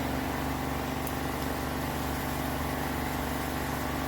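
Steady low mechanical hum, like a motor or engine running at an even idle.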